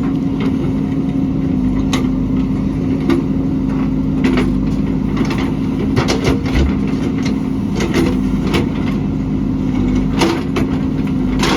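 JCB backhoe's diesel engine running steadily, with irregular sharp knocks and cracks from the digging.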